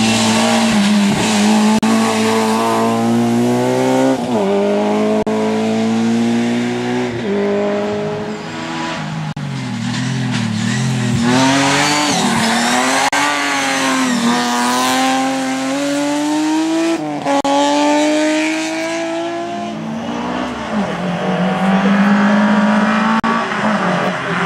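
Rally car engine revving hard through the gears. The pitch climbs and drops sharply at each shift, several times over, with a wavering stretch in the middle as it works through a corner.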